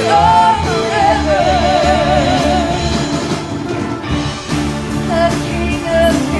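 Church worship music: a singer holding wavering, vibrato notes over a band with bass and drums.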